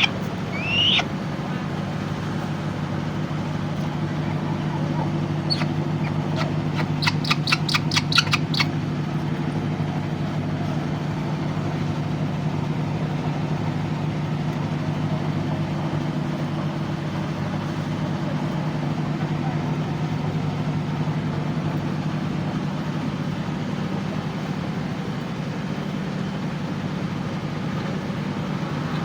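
A steady low mechanical hum, like an idling engine or motor, runs throughout. A short rising squeak comes about a second in, and a quick run of about ten sharp clicks comes around seven to eight seconds in.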